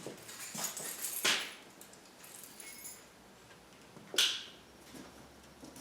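Cardboard packaging being handled and opened: a few short rustles and scrapes, the sharpest about a second in and again about four seconds in.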